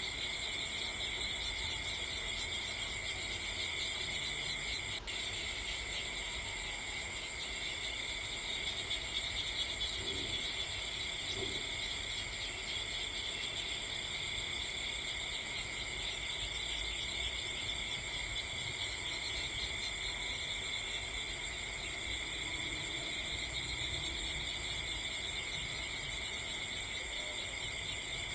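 Crickets chirping in a steady, unbroken chorus, with one sharp click about five seconds in.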